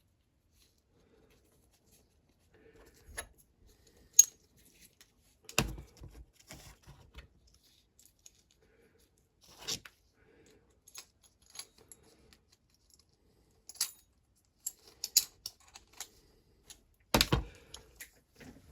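Irregular clicks, taps and small metallic clinks of hand tools and small parts being handled on a workbench while a rotary multi-drill is set up, with a sharp click about four seconds in and a couple of heavier knocks.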